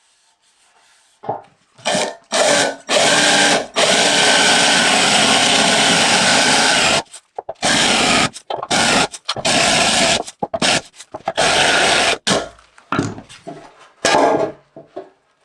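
A power tool run in repeated short bursts, with one longer run of about three seconds near the middle, each burst starting and stopping abruptly.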